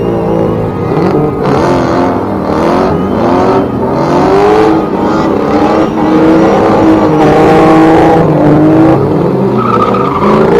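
Performance car engines revving hard at high load, with repeated rising pitch sweeps that drop back and climb again as they accelerate through the gears. Rough noisy surges come and go over the engine note, loudest near the end.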